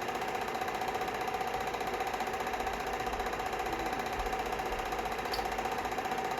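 A small motor-driven machine running steadily, with a constant hum and a fast, even pulsing.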